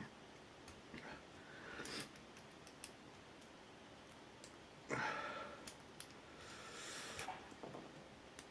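Lock picks working inside an ABUS 83-series brass padlock cylinder: faint, scattered metallic clicks and light scraping as the pins are probed, with a louder rustle about five seconds in.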